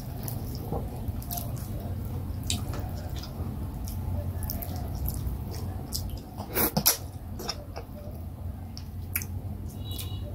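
Close-miked eating sounds: wet chewing and smacking clicks from someone eating oat fufu with vegetable soup by hand, with a louder cluster of mouth sounds about six and a half seconds in as a bite goes into the mouth.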